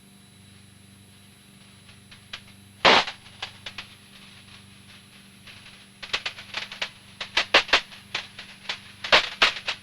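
Aircraft radio and intercom audio between transmissions: a faint steady hum, one sharp click about three seconds in, then a run of sharp crackling clicks from about six seconds in until near the end.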